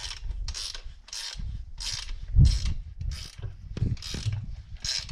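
Repeated metal-on-metal rasping, about one short stroke every 0.6 seconds, with low knocks and thuds between the strokes.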